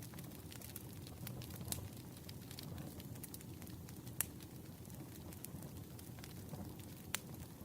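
Campfire crackling: a low steady rumble of burning wood with scattered sharp pops, the loudest a little past four seconds in.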